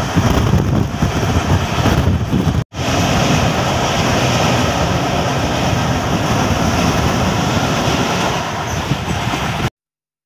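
Indian Railways passenger train running at speed, heard from an open coach window: a loud, steady rumble of the coach on the track, with uneven wind buffeting on the microphone. The sound drops out for an instant about a third of the way in and cuts off suddenly near the end.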